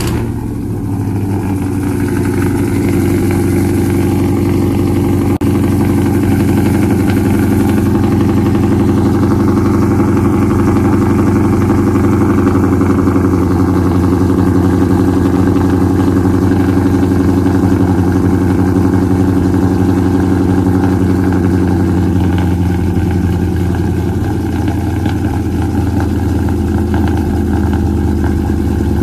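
2019 Ram 1500's Hemi V8, modified with full bolt-ons, idling fast just after a cold start. The steady note drops a little in pitch about three quarters of the way through as the cold-start high idle settles.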